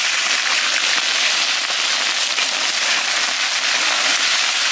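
Freshly blanched chicken pieces sizzling and crackling loudly in hot oil in an iron wok as they are stir-fried, a dense, steady spatter.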